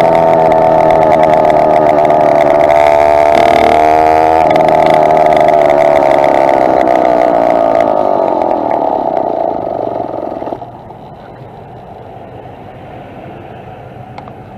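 Two-stroke motorized bicycle engine running under way, its note wavering briefly a few seconds in. The note then sinks in pitch and drops off sharply about ten seconds in, leaving a much quieter steady noise.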